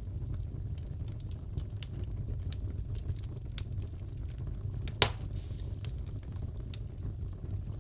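Crackling fireplace: a steady low rumble of burning wood with scattered small crackles and one louder pop about five seconds in.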